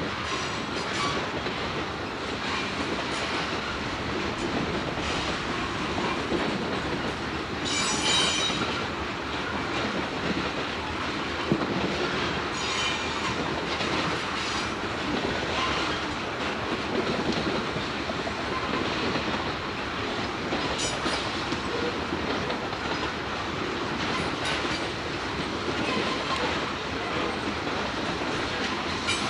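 Freight train cars rolling past with a steady noise of steel wheels on rail. Brief high-pitched wheel squeals come through several times, the strongest about eight seconds in.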